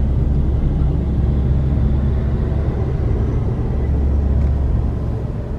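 Steady low road rumble inside a moving car's cabin: engine and tyre noise while driving in traffic.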